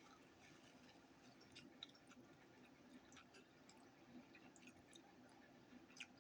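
Faint chewing with soft, wet mouth clicks and lip smacks, scattered irregularly through near silence.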